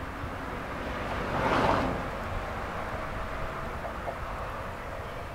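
Alpico 20100-series electric train receding along the track, a faint steady rumble, with a brief swell of rushing noise about a second and a half in.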